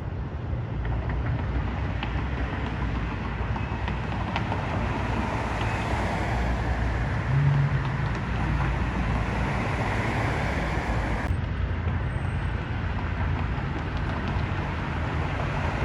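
Steady road-traffic noise: a continuous low rumble of cars going by, with a brief low engine note about seven seconds in.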